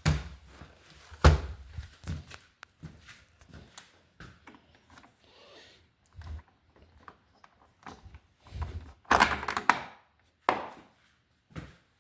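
Irregular thunks and clicks from a washing machine whose motor is no longer running, with the loudest knock about a second in and a cluster of heavier thuds around nine seconds in.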